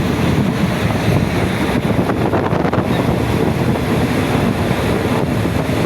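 Passenger train running, heard from the carriage: a steady low rumble with wind buffeting the microphone.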